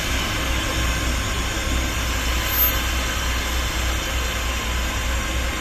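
Keiyo Rinkai Railway KD60 diesel locomotive's engine running with a steady, slightly pulsing low rumble.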